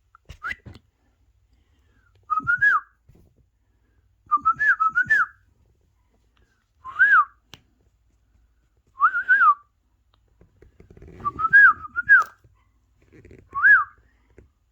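Pet parrot whistling: about six short phrases of rising-and-falling whistled notes, some single and some run together in two to four notes.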